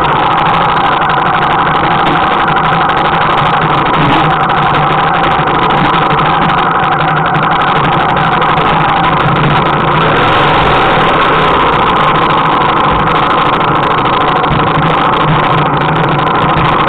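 Trail motorcycle engine running steadily at low, even revs close to the microphone, with no change in pitch.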